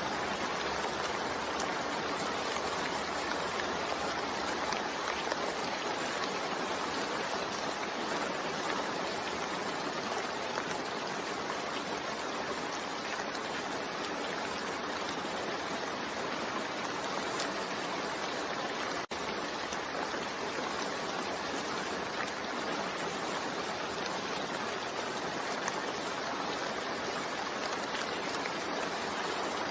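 Steady rain ambience: an even, unbroken hiss of falling rain, with a split-second dropout about two-thirds of the way through.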